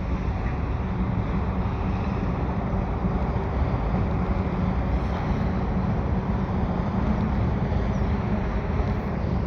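CN mixed freight train rolling past on the Victoria Bridge, a steady rumble of wheels on rail, with wind buffeting the microphone.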